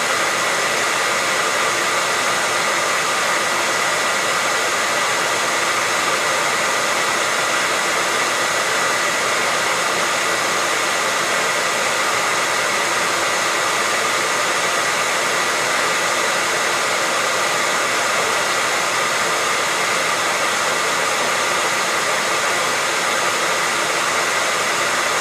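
Hair dryer running steadily, an unchanging blow of air noise with a steady high whine in it.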